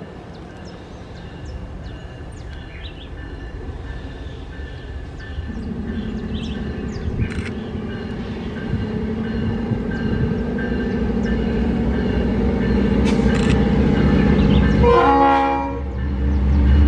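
Diesel-electric locomotive approaching and growing steadily louder, its horn sounding; the horn's pitch drops at about fifteen seconds, and near the end the train arrives close with a heavy low rumble.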